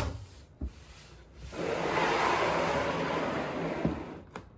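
A rush of water poured down a wooden slider. It starts about a second and a half in and fades out near the end, after a couple of light knocks.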